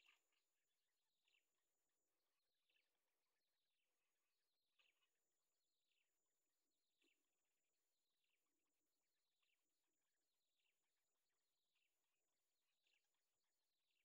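Near silence, with a faint short falling bird chirp repeated about once a second and a faint steady high whine.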